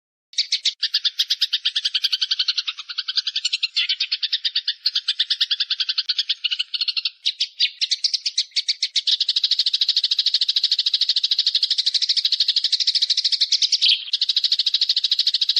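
Bird calls: a fast, rattling chatter of rapidly repeated notes begins abruptly about a third of a second in. About seven seconds in it changes to a denser, steadier and higher chatter that keeps going.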